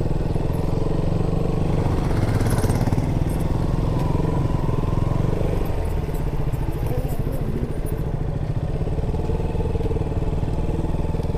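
Motorcycle engine running steadily under way at a constant pace.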